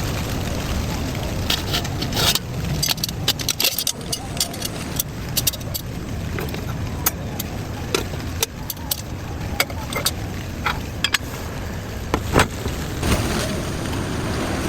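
Steady rain noise with many sharp clicks and taps scattered through it.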